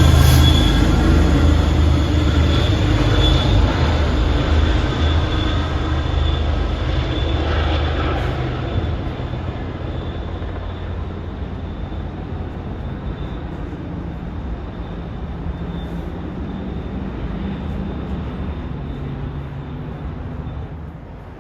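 A train running past and pulling away: a heavy rumble with a thin high whine, loudest at the start and dying down over about ten seconds to a lower steady background.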